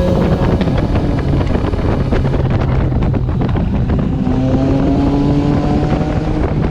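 Yamaha XMAX scooter's engine running while ridden, its pitch climbing steadily over the last few seconds as it accelerates.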